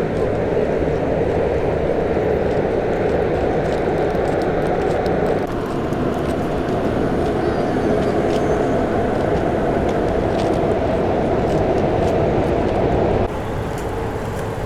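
Car engines idling steadily, a dense low running sound with no revving. It shifts abruptly about five seconds in and again near the end.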